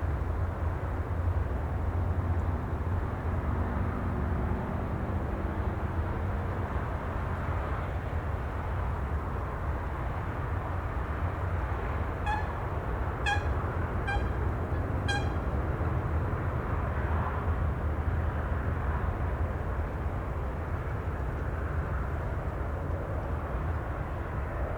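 Steady low rumbling outdoor ambience, with four short high-pitched toots about a second apart a little past the middle.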